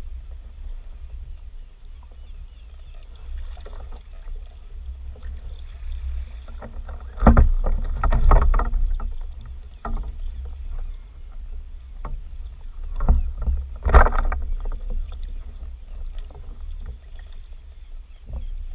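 Kayak on the sea: a steady low rumble of wind and water, with a cluster of loud sudden knocks about seven seconds in and two more around thirteen to fourteen seconds in.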